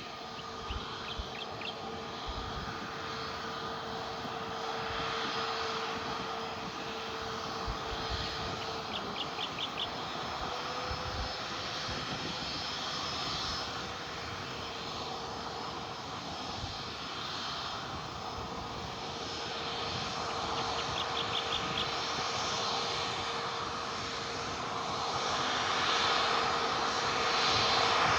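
Aircraft engines running, a steady hum with one held tone, swelling louder over the last few seconds.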